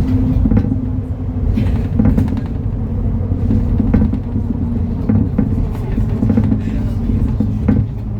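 MAN Lion's City NL293 city bus running, a steady diesel engine drone with frequent rattles and knocks.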